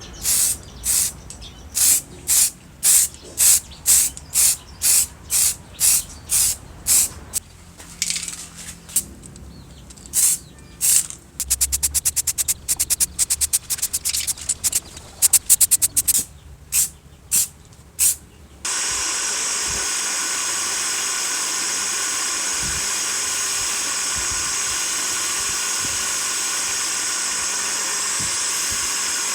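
Pressurised spray from a nozzle: a run of short sprays about two a second, then a fast stutter of very short sprays, then one continuous spray from about two-thirds of the way in.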